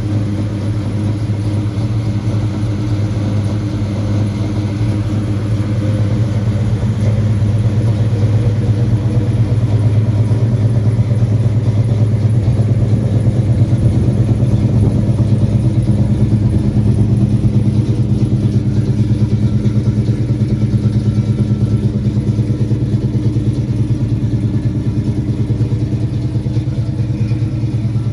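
Car engine idling steadily while warming up after a cold start, a little louder through the middle stretch.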